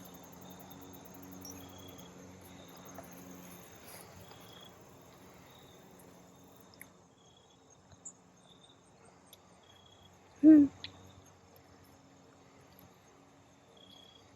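Crickets chirping in short, evenly repeated high pulses. About ten and a half seconds in, a single brief, loud pitched call sounds over them.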